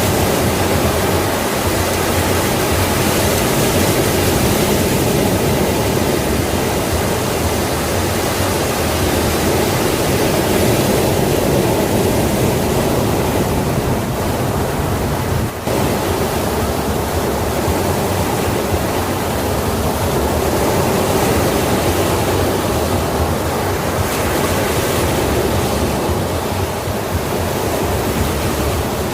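Sea waves washing on a shore: a continuous rushing surf that swells and eases slowly, with a brief drop in level about halfway through.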